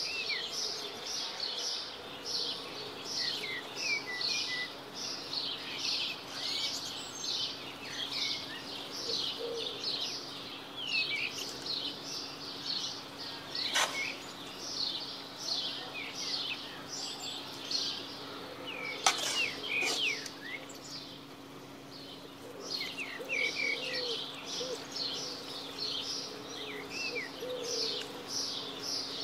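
Small birds chirping continuously in a quick run of short, high chirps, roughly two a second, over a low steady hum. Two sharp clicks sound, near the middle.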